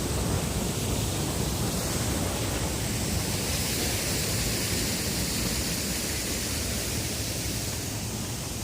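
Waterfall: a steady rush of falling water, easing off slightly toward the end.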